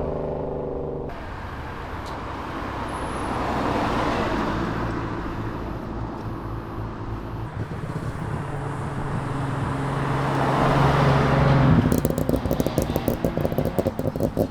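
Cars' engines running and driving past, with road noise. About twelve seconds in a louder, rapidly pulsing exhaust note starts.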